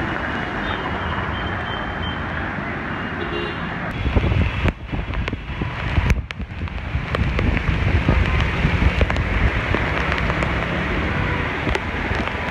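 Steady outdoor noise of heavy monsoon rain and traffic on a flooded street. From about four seconds in, wind buffets the microphone with low rumbling and scattered crackles.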